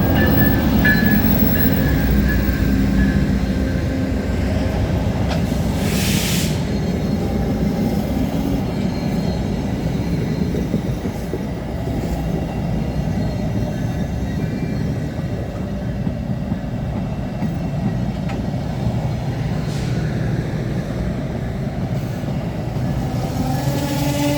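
VIA passenger train pulling into the station and slowing to a stop: a steady low rumble of the locomotive and cars on the rails, with a brief hiss about six seconds in.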